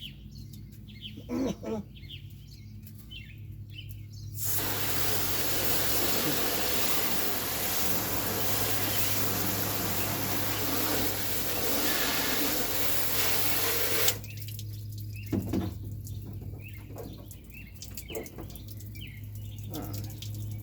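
Thumps of a large loose object knocking around inside a plastic kayak hull as the kayak is rocked, twice at the start and again after the middle, with smaller knocks near the end. In between, about ten seconds of rushing water that starts and stops abruptly.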